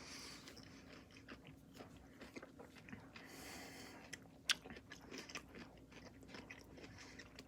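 Faint, close chewing of a large sour pickle: small wet crunches and mouth clicks, with a breathy hiss about three seconds in and one sharper click a second later.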